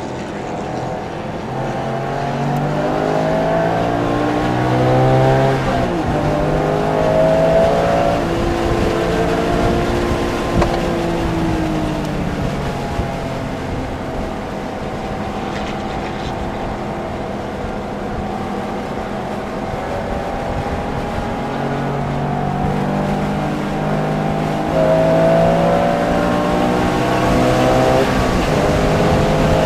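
Porsche engine at speed on a race track, revving up through the gears with a drop in pitch at each shift. Near the middle it winds down for a slow stretch, then pulls hard again, climbing through the gears to the end.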